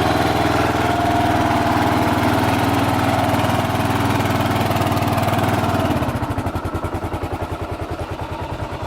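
Motorcycle engine running steadily. About six seconds in it drops to a quieter, slower idle with an even, rapid pulsing beat.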